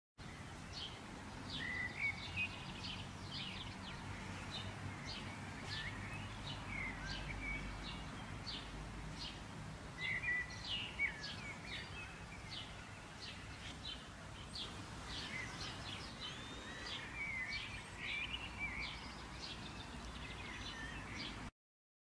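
Several songbirds chirping and singing, with many quick overlapping chirps and short warbled phrases, over a low steady background rumble. The sound cuts off abruptly near the end.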